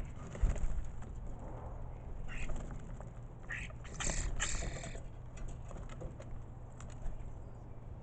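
Starlings giving a few short, harsh, rasping calls in the middle, with light scattered tapping and a low thump about half a second in.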